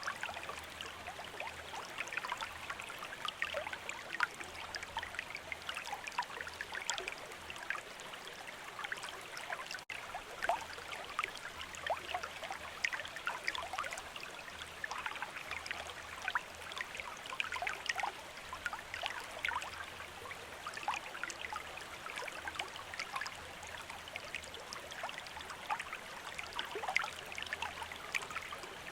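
River water running steadily, with many small splashes and trickles over an even rush. A momentary dropout about ten seconds in.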